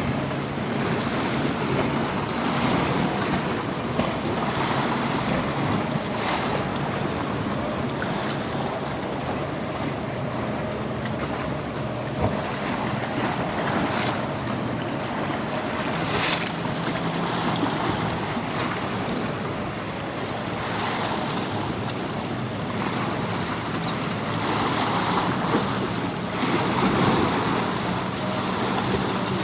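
Surf washing against a jetty, with wind gusting on the microphone and a low, steady boat-engine drone underneath. A few louder surges of spray or wind break through.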